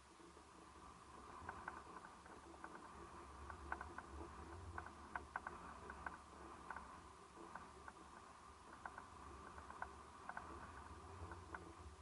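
Faint seashore ambience: a low, steady rumble of the sea with many light, scattered ticks and clicks.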